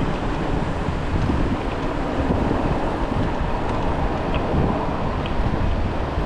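Wind buffeting a chest-mounted action camera's microphone during a bike ride, over steady road traffic noise.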